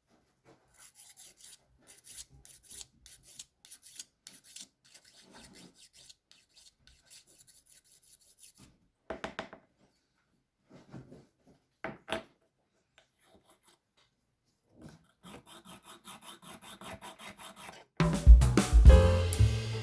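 Faint rubbing, scraping and small clicks of hand work on small toy car parts, with a run of quick, even rubbing strokes near the end. Background music with drums comes in just before the end.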